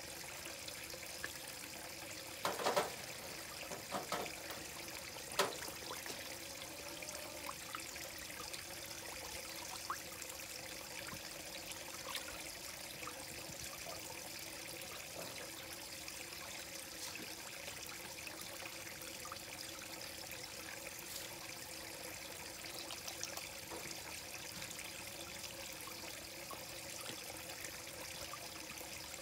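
Koi pond water trickling and splashing steadily, with a few sharper splashes a few seconds in.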